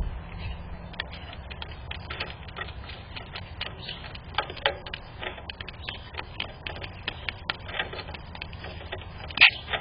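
Irregular light tapping and clicking, several small taps a second, with one louder knock near the end, over a low steady background hum.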